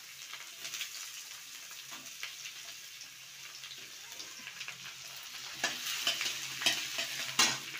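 Diced potatoes frying in hot oil in a kadai, a steady sizzle. In the last couple of seconds a metal spatula stirs and scrapes against the pan several times, the loudest scrape just before the end.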